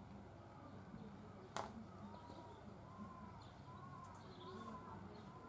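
A sharp click about one and a half seconds in, then a bird calling a short arching note over and over, faint over quiet background.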